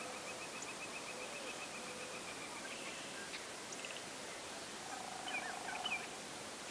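Faint outdoor quiet with a high, rapid bird trill for the first two and a half seconds or so, then a few soft chirps over a low rolling call around five to six seconds in.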